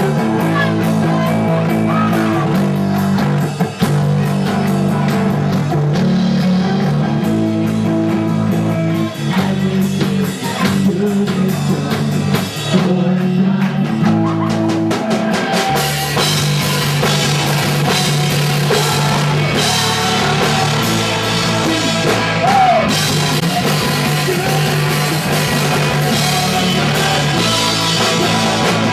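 Punk rock band playing live: electric guitars, bass and drum kit with singing. The band comes in fuller and brighter, with more cymbal, about halfway through.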